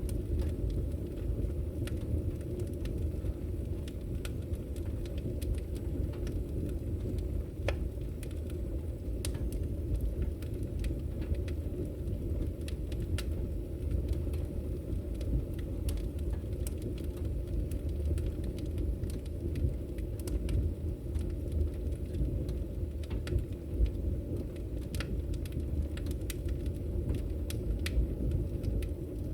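Wood fire burning in a fireplace: scattered sharp crackles and pops at irregular intervals over a steady low rumble of the flames.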